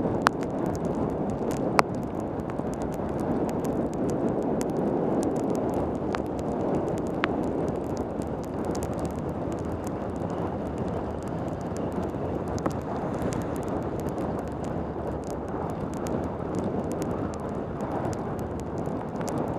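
Wind rushing over a helmet-camera microphone, with wet tyre noise, on a mountain bike descending a road in pouring rain. Occasional sharp ticks sound through it.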